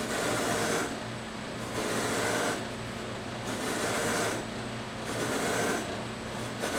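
Motor-driven buffing wheel running with a wooden stave drum shell held against it to polish it with compound, the rubbing noise rising and falling every couple of seconds as the shell is worked back and forth over the wheel.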